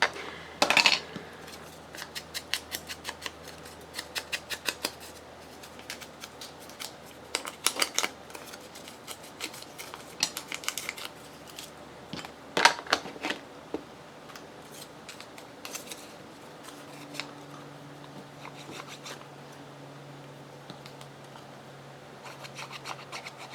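Scissors snipping through paper in quick runs of sharp clicks, with short pauses between runs and one louder snap about twelve seconds in, then only a few scattered snips.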